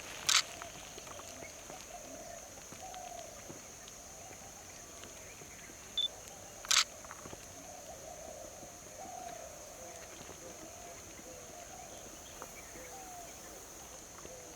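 Camera shutter firing twice, about six seconds apart, with a short autofocus beep just before the second shot. Under it runs a steady high-pitched hiss of outdoor background.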